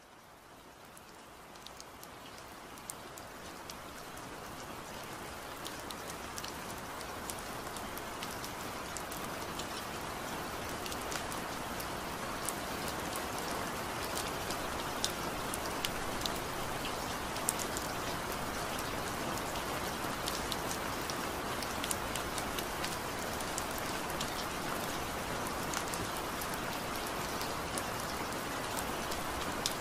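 Steady rain falling, with scattered sharp drop ticks. It fades in gradually over the first ten seconds or so, then holds level.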